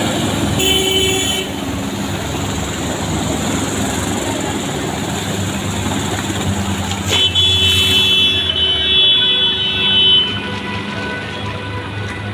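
Road traffic over a steady noisy background, with a vehicle horn sounding briefly about half a second in and a longer horn, or several overlapping horns, from about seven seconds in for around three seconds.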